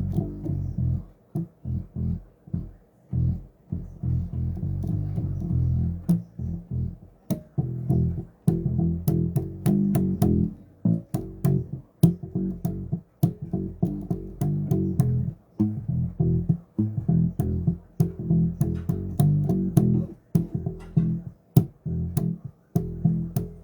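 Electric bass guitar played solo: a continuous run of short, deep plucked notes with sharp string clicks among them.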